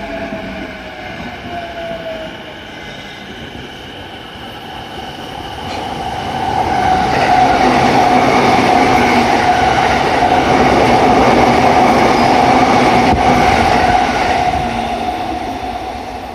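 Electric train passing close by at speed: the rumble swells about six seconds in, stays loud with a steady whine for about eight seconds, then fades. Earlier, a fainter whine falls in pitch.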